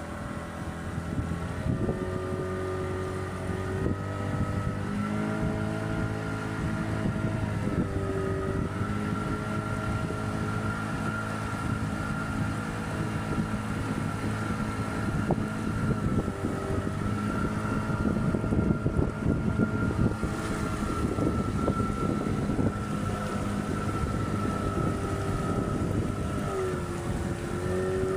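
A motorboat engine running steadily while cruising, its pitch shifting slightly up and down a few times, with wind buffeting the microphone, strongest in the middle.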